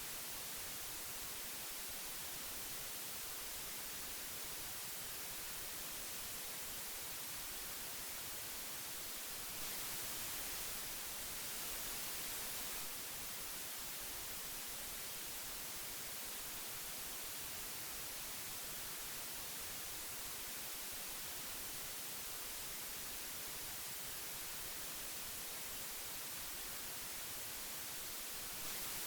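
Steady hiss of old magnetic tape, an even high-pitched noise, lifting slightly in level for a few seconds about a third of the way through.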